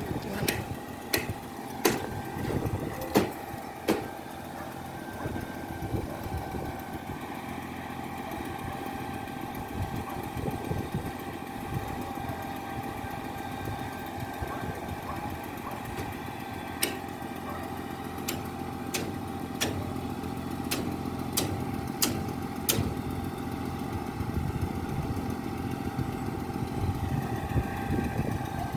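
An engine runs steadily with a constant whine. Sharp knocks sound now and then: several in the first few seconds, and a cluster about two-thirds of the way through.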